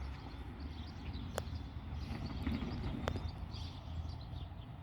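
Quiet outdoor background with a fluctuating low rumble of wind on the microphone, broken by two faint sharp clicks about a second and a half apart.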